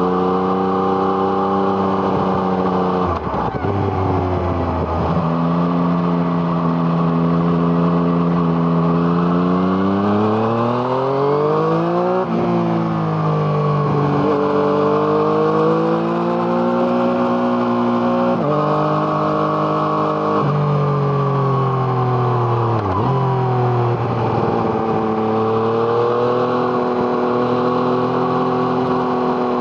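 Exhaust of a 2017 Yamaha MT-09's inline three-cylinder engine through an Arrow Thunder exhaust, heard from onboard while riding. The engine note climbs under acceleration, drops sharply at each gear change, and sags when the throttle is eased, over and over.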